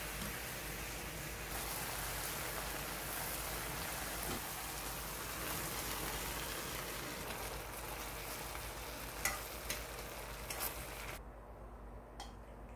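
Shiitake mushrooms sizzling in a hot frying pan with seasoning sauce, a steady frying hiss. A few sharp clicks come near the end, and the sizzle stops about eleven seconds in.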